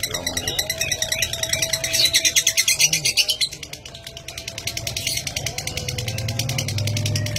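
Lovebird 'ngetik' chatter: a long, rapid run of sharp clicking chirps, like fast typing, that dips briefly about four seconds in.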